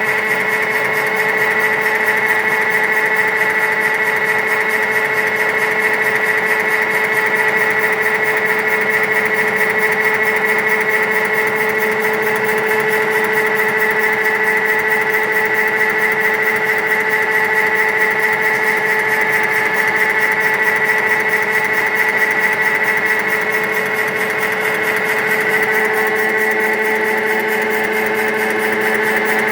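Animal-feed pellet machine running steadily with a constant whine.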